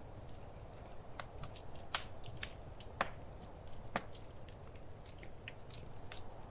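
Wood fire crackling in a fireplace: irregular sharp pops and snaps over a soft steady hiss, with the loudest pops about two, three and four seconds in.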